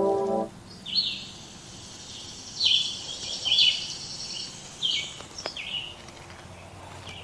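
A bird singing: a run of high chirps and quick down-sweeping notes, the loudest about three seconds in, fading out near the end. Background music stops about half a second in.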